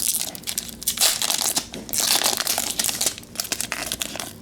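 A trading-card pack's wrapper being crinkled and torn open, in irregular rustling bursts, loudest about a second in and again around the middle.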